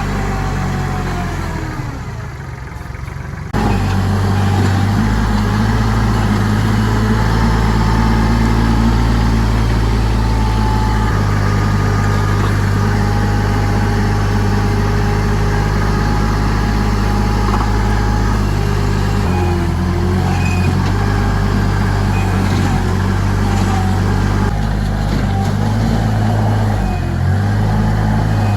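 Tractor engine running while it scrapes and moves dirt, its note stepping up and down a few times as the load changes. It is quieter for the first few seconds, then comes in suddenly louder.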